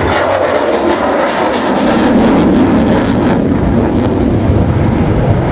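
F-35C Lightning II fighter jet's single jet engine, loud and steady as it flies past, its noise swelling about two seconds in.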